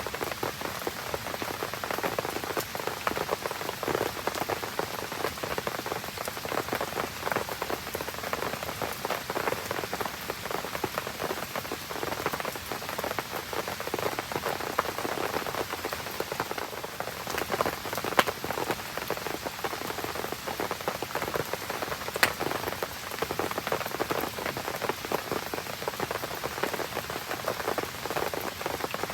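Steady rain pattering, with a campfire burning in it; a few sharp pops stand out in the second half.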